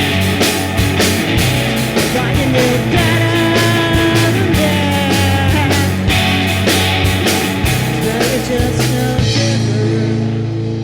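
Rock band playing a song, with drums, guitar and bass; the drums stop about nine seconds in and the guitar rings on.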